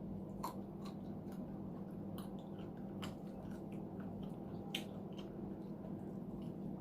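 A person chewing a mouthful of food, with short scattered mouth clicks, a sharper one just under five seconds in, over a steady low hum.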